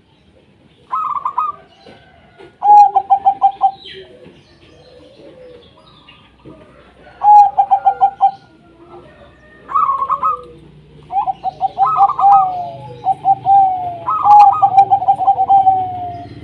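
Zebra doves (perkutut) singing: repeated phrases of rapid staccato coo notes. The phrases come closer together and overlap in the second half, the later ones trailing off in a falling slur.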